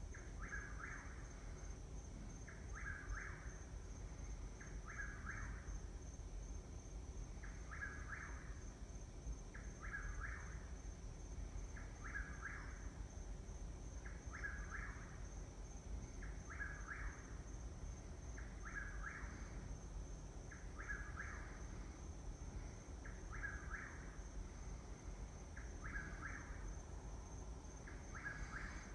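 A night-calling bird giving the same short call over and over, about once every two seconds, with an insect's steady high trill running underneath.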